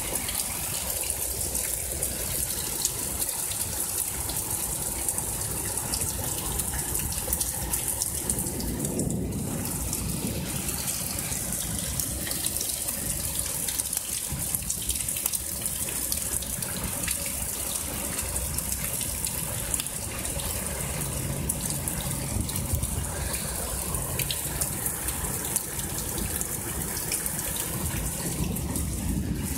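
Heavy rain pouring down steadily in a thunderstorm, a dense hiss with many small ticks of drops splashing.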